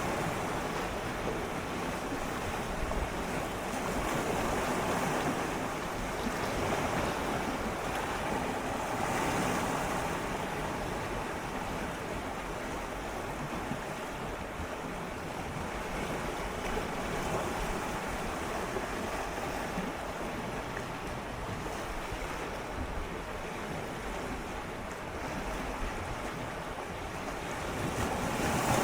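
Gentle sea waves swirling and lapping against shoreline rocks, a steady wash that swells and eases every few seconds, with a louder swell near the end.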